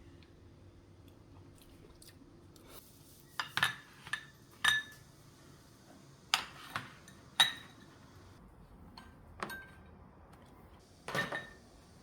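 Dishes and cutlery clinking: about nine sharp clinks with a short ring, some in quick pairs.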